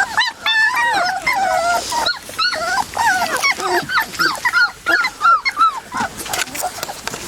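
Several 3½-week-old puppies whimpering and crying at once, a continuous tangle of high-pitched whines that rise and fall in pitch.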